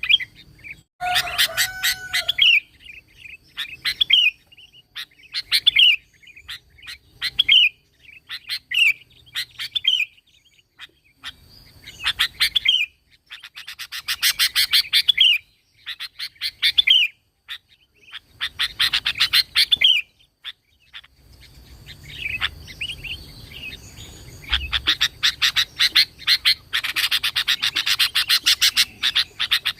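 Sooty-headed bulbul (kutilang) singing: short arched whistled phrases repeated every couple of seconds, broken twice by longer bursts of rapid chattering notes. It is a lively 'gacor' song, the kind used as a lure to set other kutilang singing.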